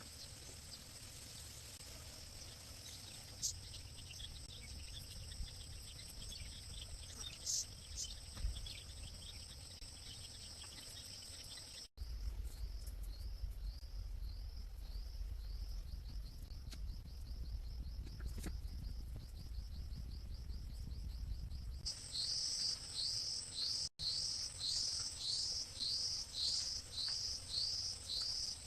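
Insects and crickets chirping outdoors. First comes a steady high buzzing, then from about twelve seconds in a repeated high chirp at about two a second, which grows louder near the end, over a low rumble.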